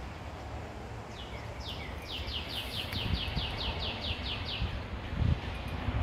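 A bird calling: a quick run of about a dozen short whistled notes, each sliding down in pitch, roughly three a second, that stops just before the end. Under it there is a low rumble, with a thump near the end.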